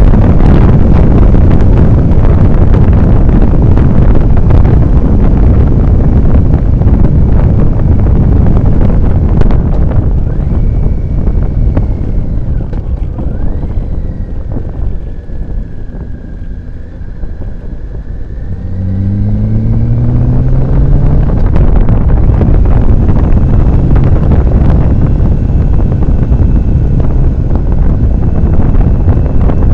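Heavy wind noise on the microphone of a motorcycle riding at speed. The wind eases for a few seconds as the bike slows, then the engine note rises as it accelerates, and the wind noise builds again.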